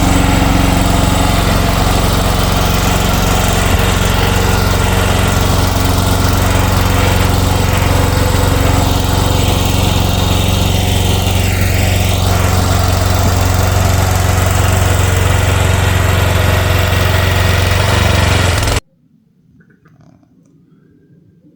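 Future FT15 mini excavator's engine running steadily under load while plowing snow, then cutting off suddenly near the end, leaving quiet.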